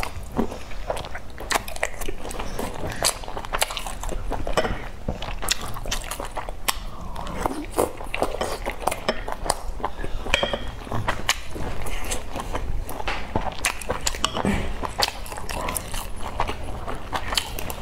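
Close-up mouth sounds of a person chewing and eating soft boiled dumplings dipped in chili oil sauce: wet chewing with many short clicks throughout.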